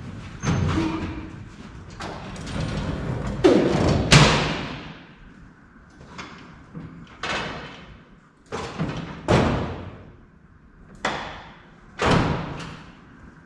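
Tools and shop items being handled and set down on a workbench: a series of irregular knocks and clatters, some ringing briefly, the loudest about four seconds in.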